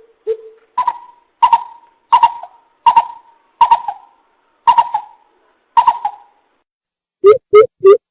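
Coucal (bìm bịp) decoy recording: a series of deep hooting notes, two lower ones first, then higher ones at a little over one a second, and near the end a faster run of low notes at about three a second.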